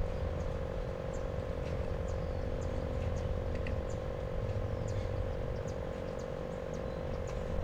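Steady, unbroken chorus of calling frogs, with faint short high chirps scattered over it and a low rumble underneath.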